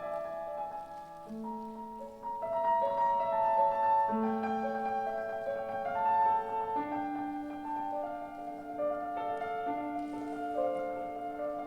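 Piano playing a slow passage of held notes and chords that change about every second.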